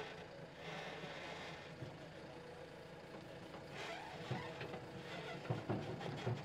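A vehicle engine running steadily at low speed, with a few knocks and clatters in the second half.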